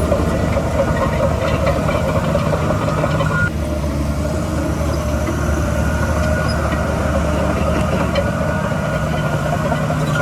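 Heavy earthmoving machinery's diesel engine running steadily. A thin high tone over it stops about three and a half seconds in.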